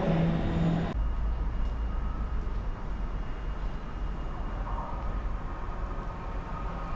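Electric train noise in a station, cutting off abruptly about a second in. A quieter low, steady rumble follows, with faint thin whines above it.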